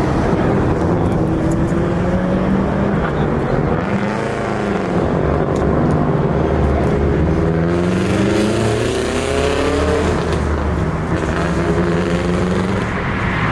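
Car engine revving, its pitch rising and falling several times over a steady engine rumble.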